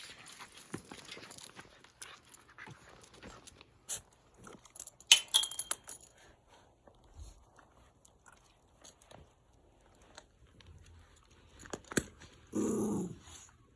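A Shiba Inu gives one short bark near the end, amid scattered light clicks and scrapes, with a sharper cluster of clicks about five seconds in.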